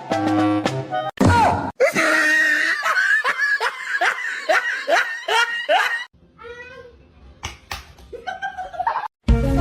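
Hearty laughter in quick repeated bursts, about three a second, after a short bit of music; it fades into a quieter stretch with a few short sounds before music comes back near the end.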